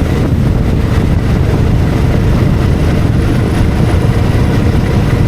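Motorcycle on the move: the engine runs steadily under dense wind noise on the microphone.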